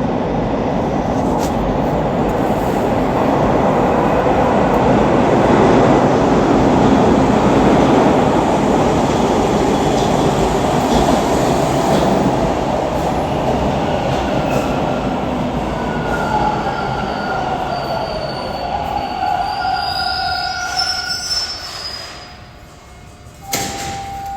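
Toronto subway train running on the rails, then slowing. From about the middle, squeals and whines glide down in pitch while the rumbling fades as the train comes almost to a stop. A sharp knock follows near the end.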